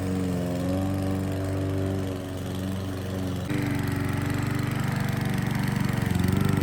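Petrol lawn mower engine running, its pitch wavering slightly. It turns suddenly louder and fuller about three and a half seconds in.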